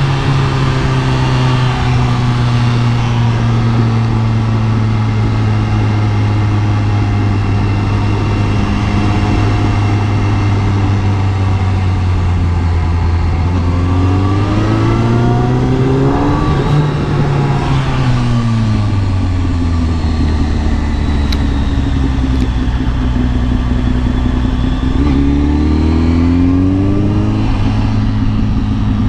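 Kawasaki ZX-10R inline-four engine running at a steady note, climbing in pitch about halfway through and falling back, then rising and dropping once more near the end.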